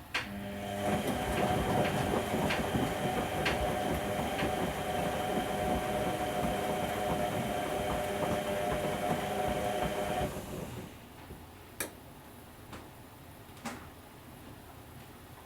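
Whirlpool Indiana front-loading washing machine tumbling its drum during the wash: a steady motor whine with sloshing and small knocks starting with a click, running about ten seconds and then stopping for the drum's rest pause, in which a couple of sharp clicks are heard.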